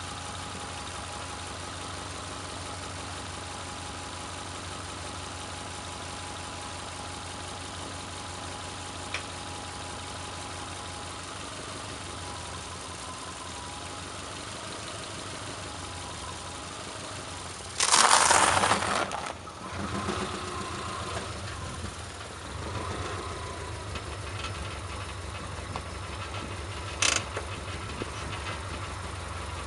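Car engine idling steadily, then a loud crunch lasting about a second and a half as the tyre rolls over and crushes a block of dried ramen noodles on concrete, followed by rougher crackling as the car keeps moving. A sharp click sounds near the end.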